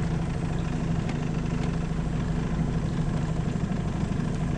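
Tohatsu 9.8 hp four-stroke outboard motor running steadily with an even hum.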